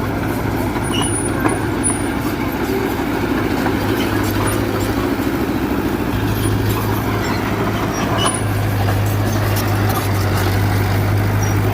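Diesel engine of a Mitsubishi BD2G bulldozer running steadily under load, a constant low hum, with a few faint clinks over it.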